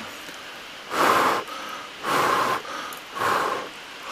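A person slurping long sari noodles, three slurps about a second apart.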